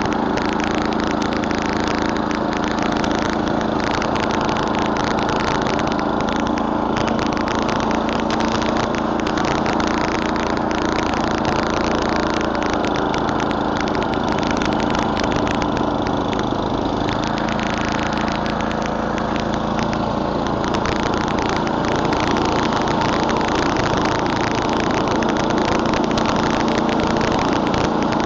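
Murray Select snowblower's 11 hp Tecumseh single-cylinder engine running at a steady speed.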